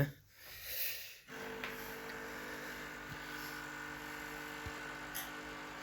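A brief knock, then from about a second in a steady, even hum made of several pitched tones, as from an electrical appliance or motor running.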